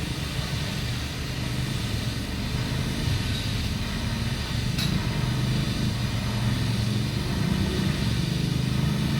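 An engine running steadily with a low hum, with a single sharp click about five seconds in.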